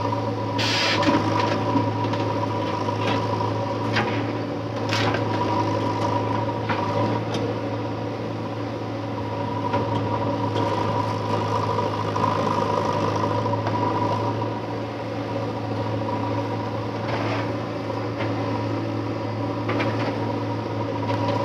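JCB backhoe loader's diesel engine running steadily, with sharp knocks scattered through it, several in the first seven seconds and two more near the end.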